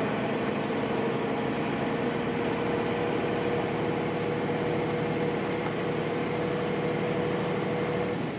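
Nissan Diesel Space Runner RM bus's FE6-series diesel engine running under way, heard from inside the cabin, with a steady whine that rises slightly in pitch. The whine and engine note drop away just before the end.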